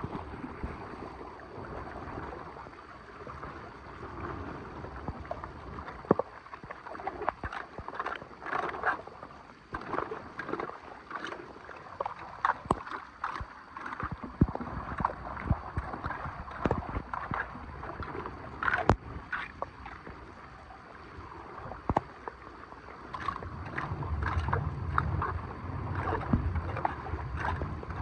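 Floodwater sloshing and gurgling at a clogged storm drain as debris is pulled out by hand and tool, with many short knocks and splashes. A low rumble joins in near the end.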